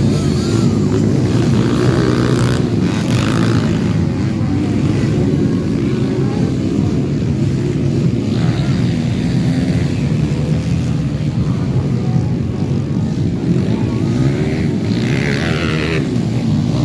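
Off-road motorcycle engines running loud and continuous, their pitch rising and falling as the bikes rev.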